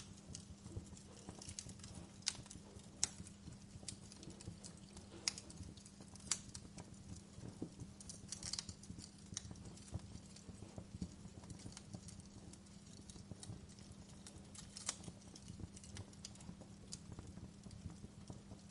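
Wood fire crackling in a fireplace: irregular sharp pops and snaps, every second or so, over a faint steady burning hiss.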